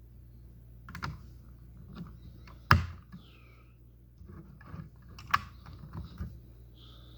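Plastic LEGO pieces clicking and tapping as they are handled and snapped together: scattered sharp clicks, the loudest about two and a half seconds in, with a run of smaller clicks in the second half.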